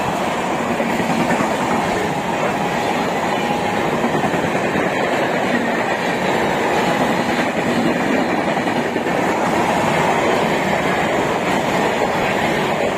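Passenger coaches of an express train running through a station at speed, about 120 km/h: a steady loud rush and clatter of wheels on the rails as the coaches pass.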